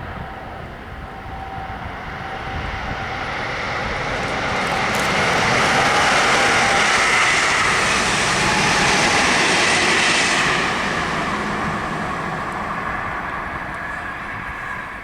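A train passing at speed: its noise builds up, is loudest from about six to ten seconds in, then fades away.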